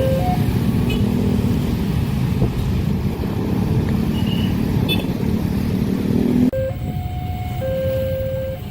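A railway level-crossing warning alarm sounding in two alternating steady tones, over a loud low rumble of vehicles. The rumble drops abruptly about six and a half seconds in, and the two-tone alarm carries on.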